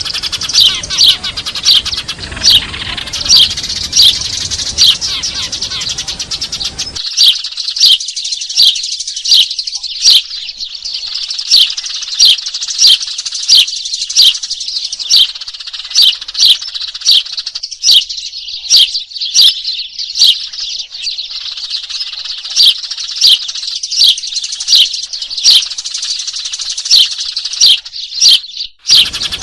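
Eurasian tree sparrows chattering in a noisy flock, a dense run of high chirps with louder, sharp chirps standing out about twice a second, played as a looped bird-trapping lure call. A low background hiss under the chirps cuts out about seven seconds in.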